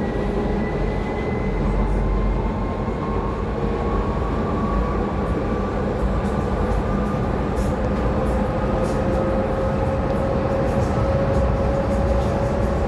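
Docklands Light Railway train running, heard from inside the front car: a steady rumble of wheels on track with a motor whine that slowly rises in pitch as the train gathers speed.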